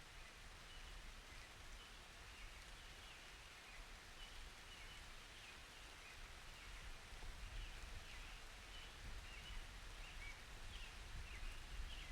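Faint steady rain, with a run of short high chirps repeating several times a second over it.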